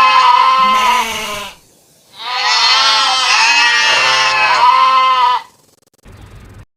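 Goat bleating: two long, quavering bleats. The first ends about a second and a half in; the second starts about two seconds in and lasts about three seconds.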